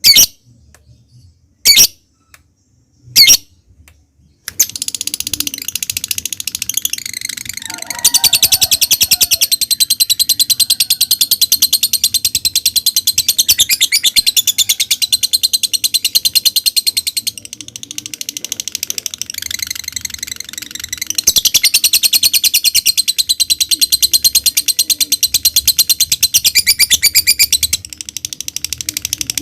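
Lovebird calling: a few single sharp calls, then from about four seconds in a long, very fast rattling chatter of rapid repeated high notes, the extended trill that Indonesian keepers call ngekek. The chatter grows louder about eight seconds in, eases off briefly in the middle and picks up again for a second long run.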